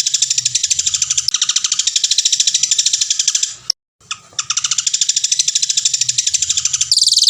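Songbird song from a masteran training recording: a loud, long, rapid trill of evenly repeated high notes. It cuts out briefly about halfway through, then resumes, and changes to a denser, higher burst near the end.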